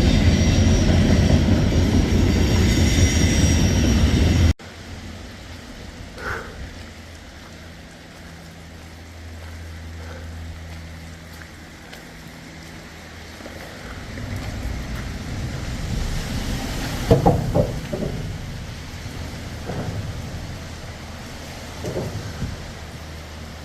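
Rain falling outdoors. A loud, low rumbling noise for the first few seconds cuts off abruptly, then quieter steady rain noise with a few short knocks.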